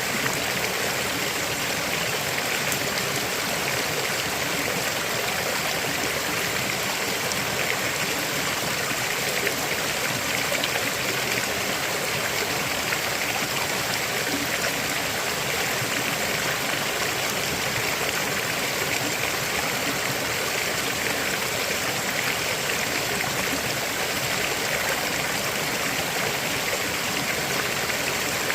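River water flowing and splashing over rocks, a steady even rush with no change.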